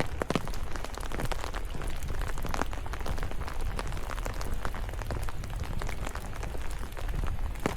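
Steady rain in a forest, with many close raindrops ticking irregularly.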